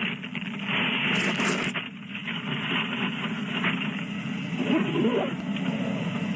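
Steady vehicle noise from roadside traffic and a running engine, with a faint voice briefly about five seconds in.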